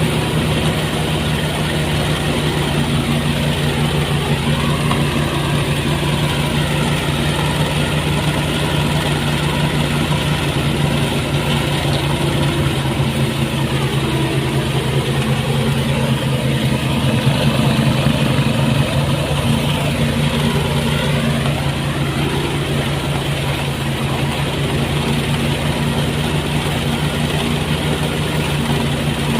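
Motorised rice thresher running with a steady engine drone, with a higher tone that wavers up and down through the middle.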